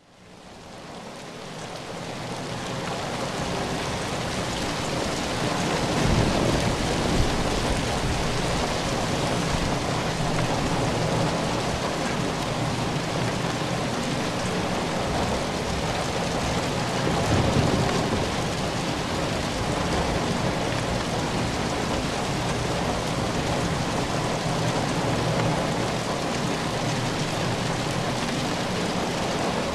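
Steady rainfall, a dense even hiss of falling rain, fading in over the first few seconds. Low rumbles swell up twice, about six seconds in and again around seventeen seconds.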